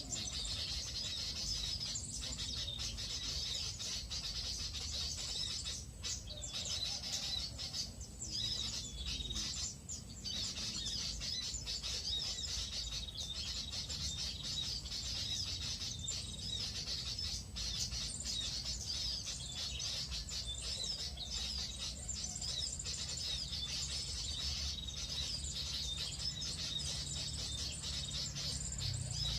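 Small birds chirping and calling continuously, many quick high notes overlapping, over a low steady rumble.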